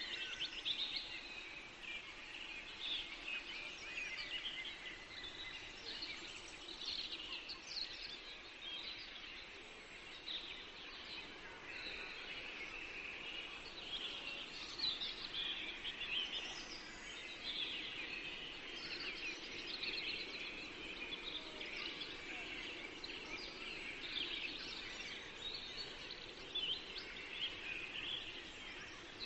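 A chorus of many songbirds singing at once in a forest: dense, overlapping high chirps and trills with no pause.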